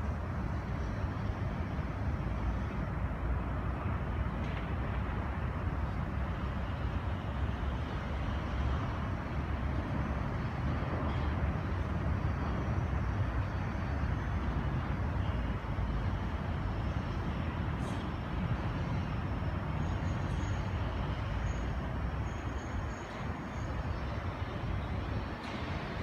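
Steady city traffic rumble. A few faint, short high peeps come about twenty seconds in.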